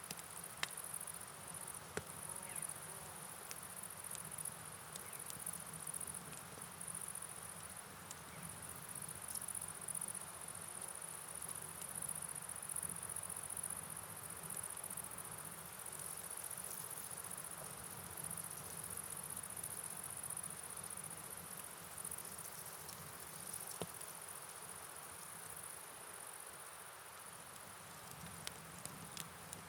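Night ambience of steady rain and flowing river noise under a continuous high-pitched cricket chorus, with a few scattered sharp clicks.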